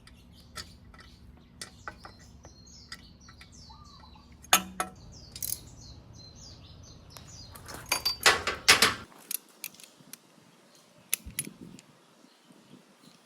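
Metal tools and parts clinking and clattering, in separate sharp clicks with a louder burst of clatter about eight seconds in. A bird chirps in the background, and a steady low hum cuts off about nine seconds in.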